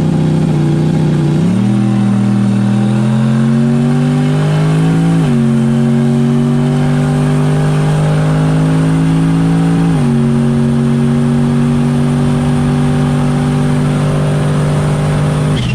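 Turbocharged Chevy Silverado's V8 engine pulling in gentle acceleration while the automatic transmission upshifts: the engine note drops suddenly three times and again at the very end, climbing slowly in pitch between shifts.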